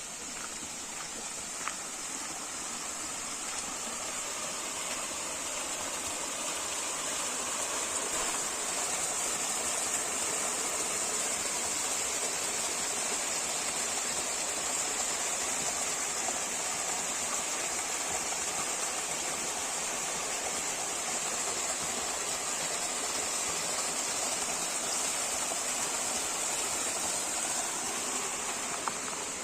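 Stream water rushing steadily, with a constant high-pitched hiss above it; it grows slightly louder over the first several seconds.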